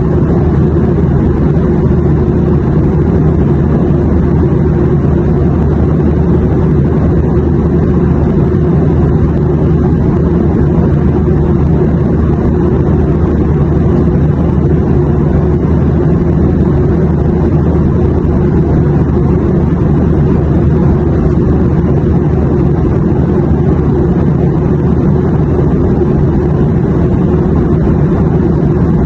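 Steady airliner cabin noise: a constant low engine and airflow rumble with a faint hum, unchanging throughout.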